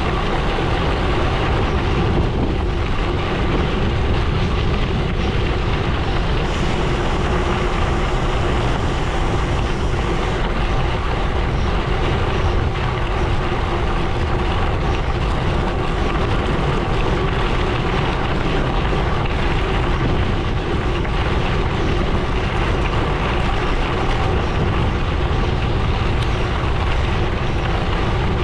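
Gravel bike rolling along a gravel road: steady tyre noise on the loose surface, with wind on the microphone.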